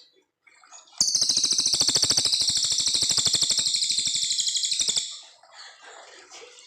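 Brown cililin songbird singing one long, very fast rattling trill of about four seconds that stops abruptly, with fainter twittering notes before and after.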